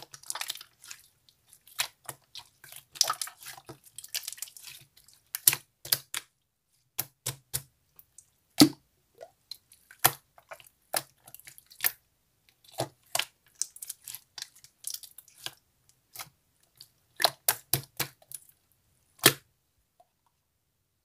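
Clear slime being squeezed and stretched by hand, giving irregular sticky clicks and small air-bubble pops, with denser crackling at first; it stops near the end.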